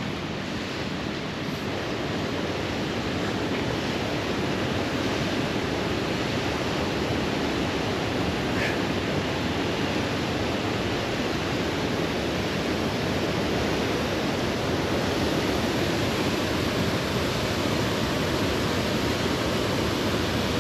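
Steady loud rushing noise with no clear rhythm.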